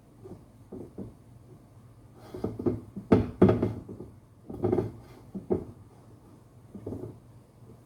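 Irregular knocks and clunks of objects being handled and set down, with the loudest cluster about three seconds in.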